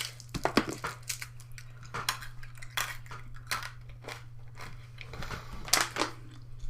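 A spoon clinking and scraping against a dish, a run of irregular sharp clicks, over a steady low hum.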